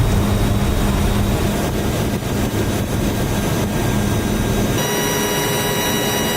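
Steady drone of a C-130J Super Hercules's turboprop engines and propellers. About five seconds in, the sound changes abruptly to a thinner hum with several steady high-pitched tones.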